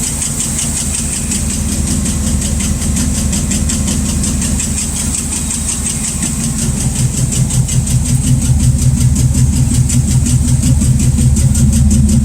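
Rat rod's engine idling with a fast, even valvetrain tick; about seven seconds in the running grows louder and more pulsing. The owner thinks the rockers may need adjusting; the tick was later traced to a bent pushrod.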